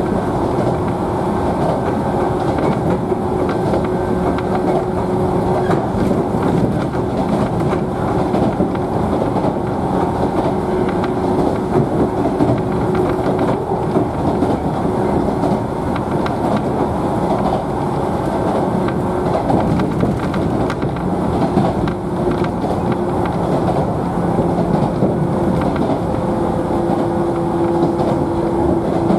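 Running noise heard inside a JNR 113 series electric train car at speed: a steady rumble of wheels on the rails with a steady hum running through it.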